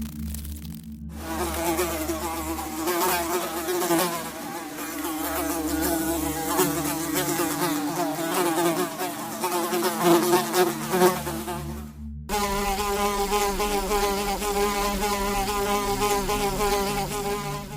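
A flying insect buzzing: a wavering buzz for about eleven seconds, then after a sudden cut a steadier, slightly higher-pitched buzz.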